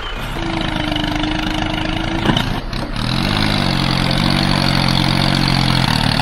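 Motor of a homemade mini tractor running steadily. About halfway through, a lower drone comes in, rises briefly in pitch and then holds steady.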